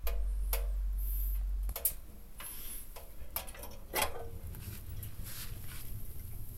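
Wood fire crackling in a stainless steel drum-can wood stove, with sharp snaps every second or so, the loudest about four seconds in. A low rumble underlies the first couple of seconds and then stops.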